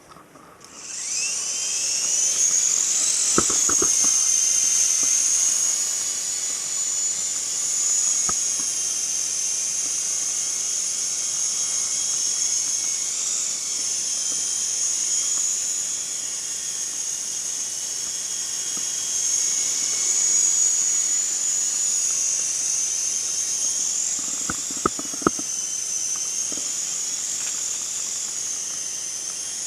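Syma S031G coaxial RC helicopter's electric motors and twin rotors spinning up to a high-pitched whine about a second in, then running steadily in flight. The pitch wavers up and down now and then as the throttle changes.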